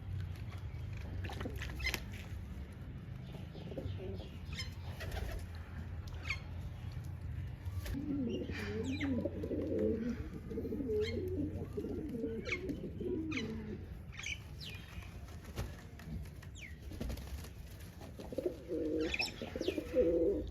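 Pigeons cooing: runs of low, wavering coos from about eight seconds in and again near the end, with short sharp clicks and chirps scattered throughout.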